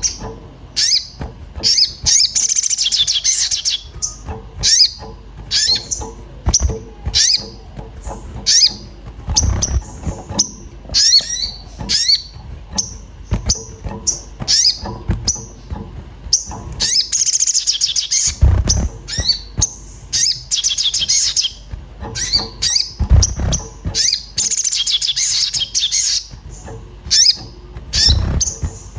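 A sogon songbird in an agitated state giving sharp 'cuit cuit' chirps in quick series, broken by several longer bursts of dense, rapid high twittering. This is the excited calling that keepers play as a lure to set other birds singing. A few dull low thuds sound among the calls.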